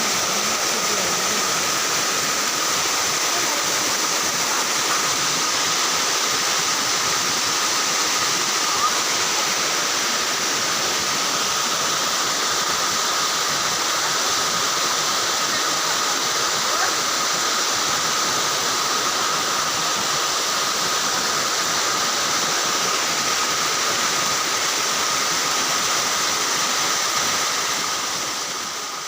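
Waterfall rushing, a steady, loud, even roar of falling water that fades off near the end.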